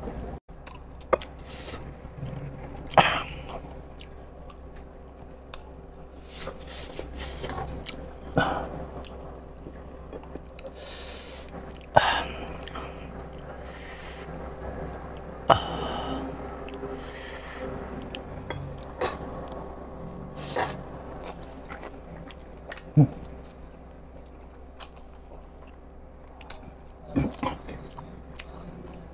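A man chewing and biting soft food with his mouth, mainly pork siomai (steamed dumplings). Wet chewing and lip-smacking are heard, with scattered sharp clicks every few seconds.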